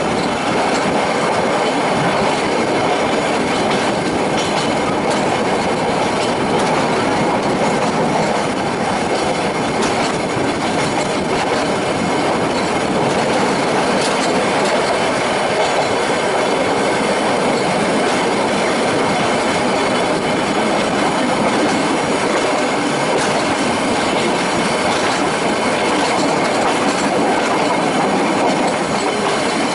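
Metre-gauge Nilgiri Mountain Railway toy train running, heard from a coach window: a steady rattle and rumble of wheels on rail, with clickety-clack and a thin wheel squeal as the coaches take the curves.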